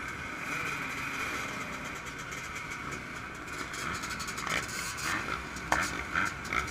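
Yamaha YZ125 two-stroke motocross engine running steadily at high revs during riding. Several sharp knocks come in the second half.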